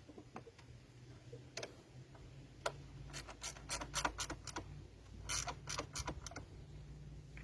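A run of light clicks and knocks from tools and parts being handled at a workbench, thickest in the middle, over a steady low hum.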